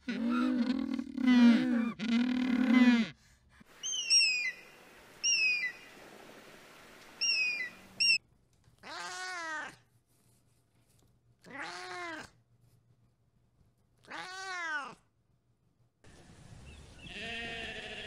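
Humboldt penguins braying: a run of loud, low, donkey-like calls for about three seconds. Then several short high chirps that fall in pitch. After that a cat meows three times, a couple of seconds apart, and near the end a sheep begins to bleat.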